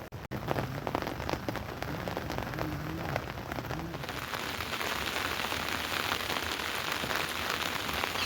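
Rain falling: scattered drips and patter at first, then from about four seconds in a steady, denser rain hiss.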